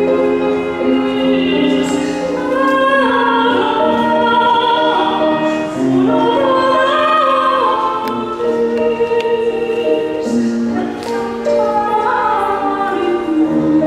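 Slow sacred-sounding vocal music: voices singing long held notes that move from pitch to pitch.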